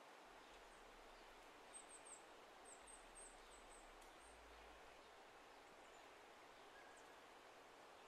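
Faint outdoor quiet with a quick run of about ten very high, short bird chirps between about two and four and a half seconds in.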